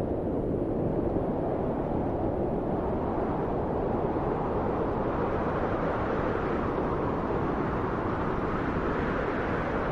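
Steady low wind, a deep rushing that swells and eases gently without any gusts or breaks.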